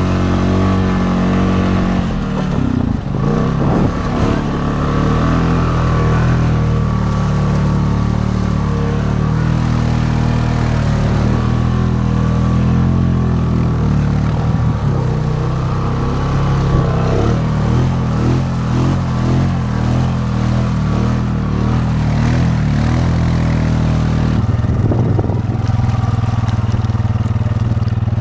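Honda Rubicon ATV's single-cylinder engine running steadily while riding, its pitch holding fairly even, with brief changes in load about 3 seconds in and again near the end.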